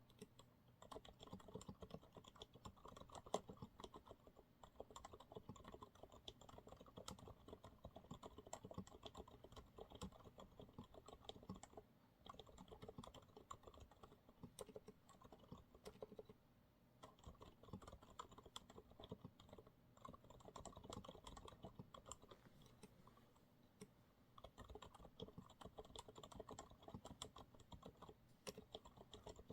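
Fast, continuous typing on a Monsgeek MG108W mechanical keyboard with TTC silent brown switches: soft, muted keystroke clicks, with brief pauses two or three times.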